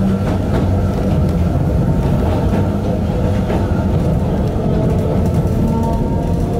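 Yokkaichi Asunarou Railway 260 series narrow-gauge electric train running, heard from inside the driver's cab: a steady rumble of wheels on rail with a few short clicks. A faint whine rises in pitch near the end as the train picks up speed.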